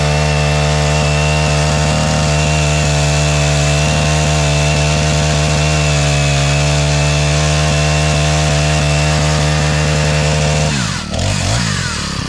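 Small 18-inch four-stroke chainsaw running at high revs, its pitch sagging a little about halfway through as it works in the cut. Near the end the revs fall away quickly as the throttle is let off.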